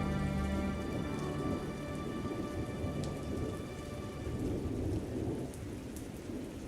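Steady rain with a low rumble of thunder. Held music notes die away over the first couple of seconds, leaving the rain alone.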